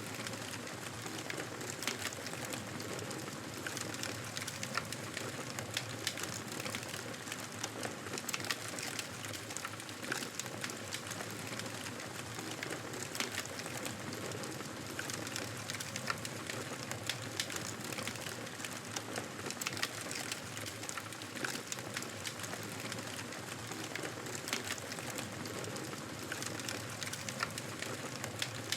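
Wood fire in a fireplace crackling, with frequent small sharp pops over a steady hiss.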